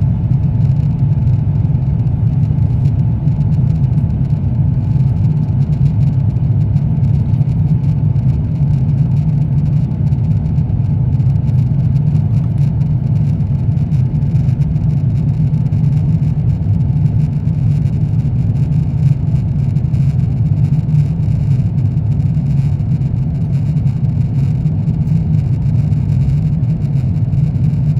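Steady cabin noise of an Airbus A350-900 airliner in flight: a constant low rush of airflow and engine noise from its Rolls-Royce Trent XWB turbofans, with a faint steady hum above it.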